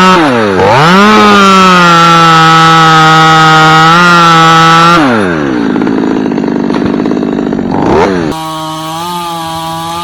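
Chainsaw running at full throttle while cutting a limb, with a brief dip in revs about half a second in. About five seconds in it falls back to idle, revs briefly near eight seconds, then runs steadily again at a lower level.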